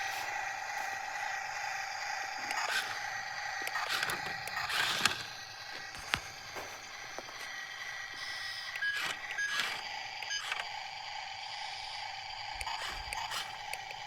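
Small electric motors of RC toy vehicles whining steadily, with scattered clicks and scrapes from the toys working, the sharpest about five and six seconds in.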